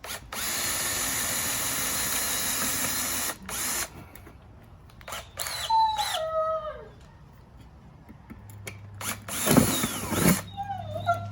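A power drill running steadily for about three seconds, then a short second burst: drilling to mount a toggle switch under the steering column. Later come a few short squeaks that slide down in pitch, and a louder rough burst over a low hum near the end.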